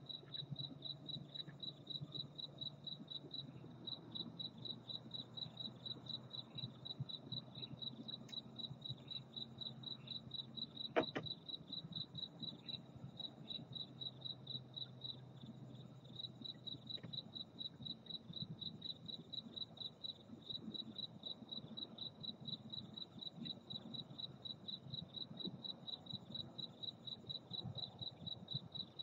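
Crickets chirping steadily, about three high chirps a second. One sharp click about eleven seconds in.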